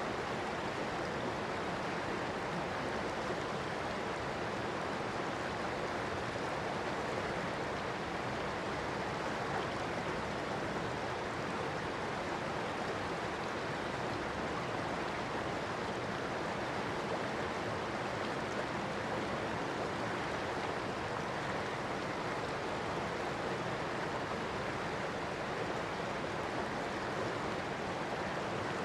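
River water flowing, a steady rushing with no breaks or single splashes.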